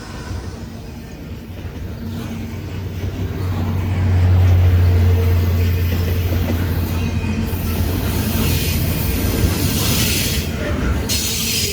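A diesel-hauled freight train passing close by. A low locomotive engine rumble swells about four seconds in, then bursts of hiss from the wheels on the rails come in later.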